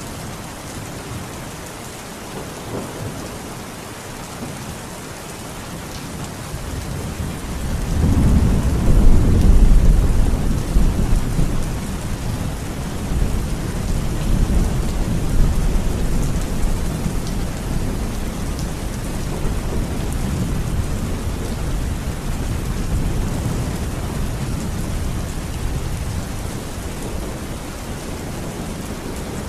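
Steady heavy rain with a long roll of thunder: a low rumble swells about seven seconds in, is loudest a second or two later, then slowly dies away under the rain.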